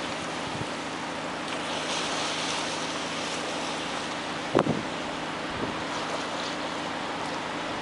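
Strong wind blowing across a lake, a steady rushing hiss that swells in gusts and buffets the microphone. There is a single sharp knock about four and a half seconds in.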